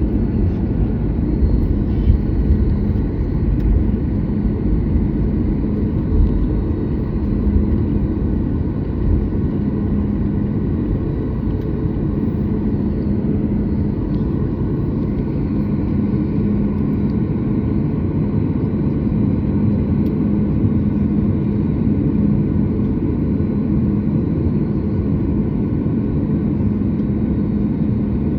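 Cabin noise inside a Boeing 737 MAX 8 on the ground before takeoff: the steady rumble and hum of its CFM LEAP-1B engines at idle. Some uneven low bumps in the first few seconds settle into a smoother steady rumble.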